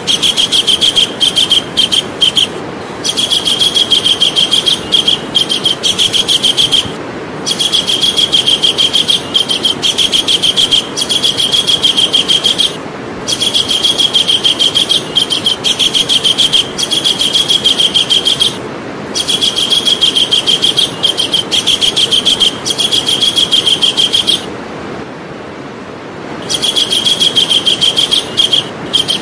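Javan kingfisher calling: fast, high, rattling runs of repeated notes, each bout about five seconds long, separated by short pauses and one longer break near the end, over a steady hiss.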